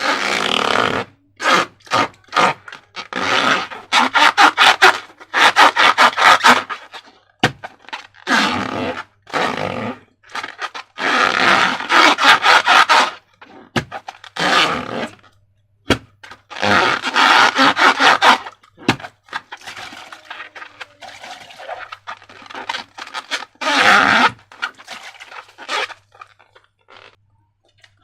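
Slime being worked by hand, squished and stirred, in irregular bursts of sticky crackling noise with short pauses between.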